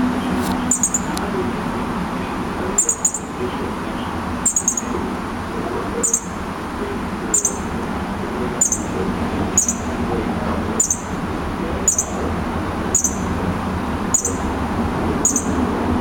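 A baby bird chirping: short, high chirps repeated about once a second, over steady background noise.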